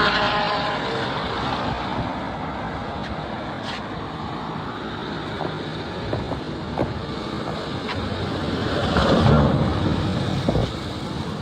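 Street traffic: a passing vehicle fades away just after the start and another passes about nine seconds in, over a steady background of road noise.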